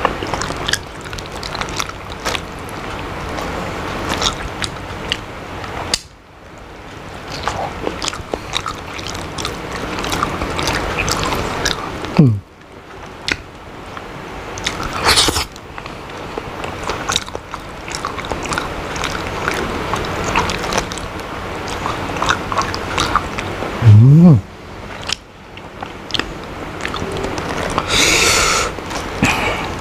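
Close-miked eating sounds of a person chewing raw smoked salmon: wet mouth clicks and smacks. Twice there is a short low vocal sound, and near the end a brief scrape as a piece is dipped into a small cup of sambal.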